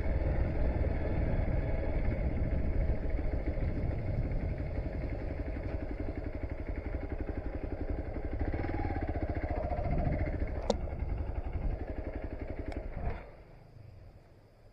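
Hero XPulse motorcycle's single-cylinder engine running as it is ridden over an off-road track, with a couple of sharp knocks near the end. The engine sound drops away abruptly shortly before the end.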